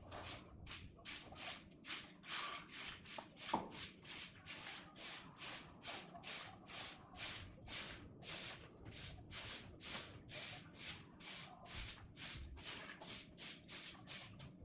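Rhythmic scraping or brushing strokes, about three a second, each a short hiss of friction.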